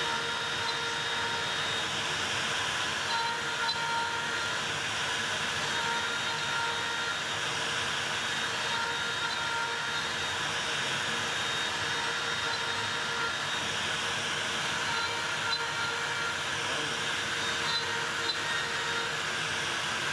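A Makita router on a Onefinity CNC machine running steadily, with short higher tones coming and going.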